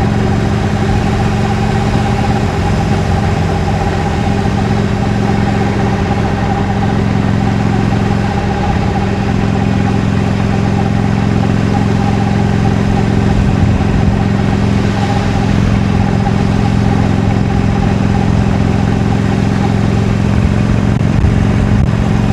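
Harley-Davidson Iron 883's air-cooled V-twin running through its stock exhaust, holding a steady engine speed while cruising.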